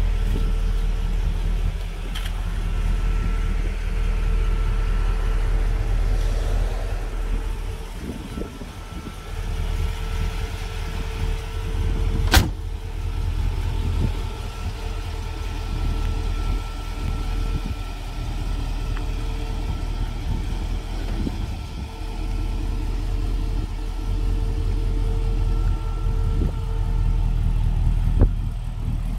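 1957 Chevrolet Bel Air engine idling steadily, with one sharp click about twelve seconds in.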